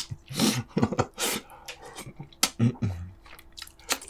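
A man chewing braised pork ribs and kimchi, with irregular wet mouth clicks and lip smacks and a few short low grunts or hums.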